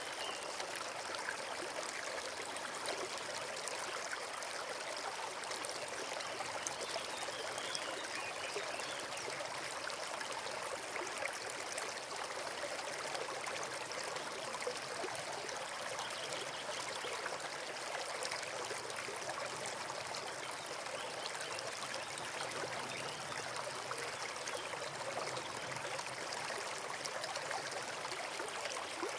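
Small forest stream running steadily with a continuous trickling, babbling rush of water.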